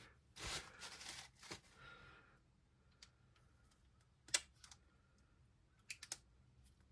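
Small RC shock parts being handled: a rustle about half a second in, then a few sharp, light plastic-and-metal clicks, the loudest about four seconds in and two more close together near the end.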